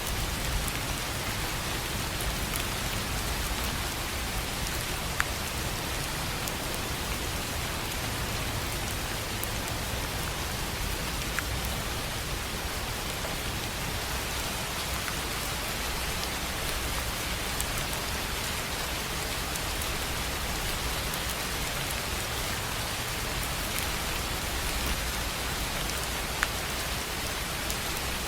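Steady rain falling on a tin roof: an even patter throughout, with a few louder single drops ticking out now and then.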